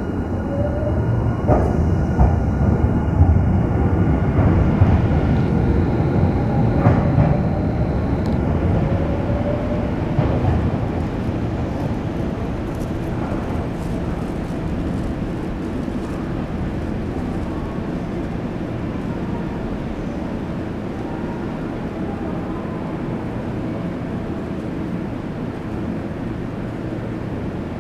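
Electric commuter train pulling out of the station platform: a low rumble with wheel knocks and a rising motor whine over the first ten seconds or so, then easing into a steady, quieter rumble.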